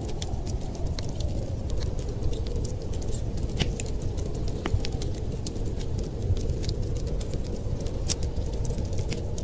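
Wood fire crackling, with many irregular small snaps and pops over a steady low rushing noise.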